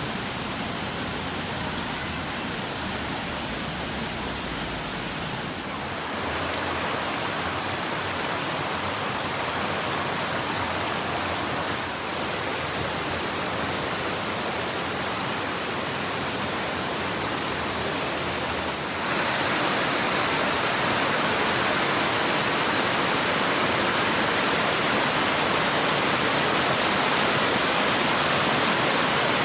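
Waterfall: a steady rush of falling water that grows louder in two steps, about six seconds in and again near twenty seconds.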